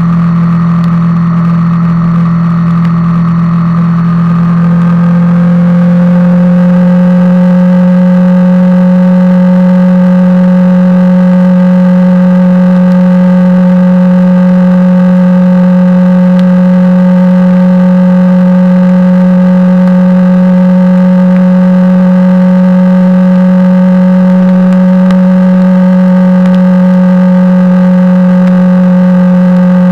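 Honda CBR250R's single-cylinder engine held at a steady cruise: an unbroken, level drone whose tone shifts slightly about five seconds in and then stays constant.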